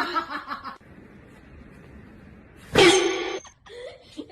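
Animal calls: a loud pitched call trailing off at the start, then a short loud call near the three-second mark and a weaker one just after.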